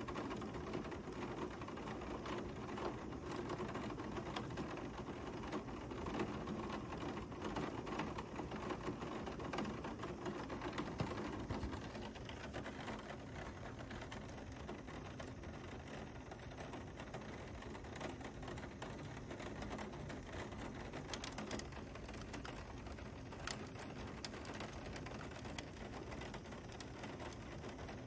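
Heavy thunderstorm rain pouring down: a dense, steady hiss of rainfall with many small ticks of drops striking close by, easing slightly after about twelve seconds.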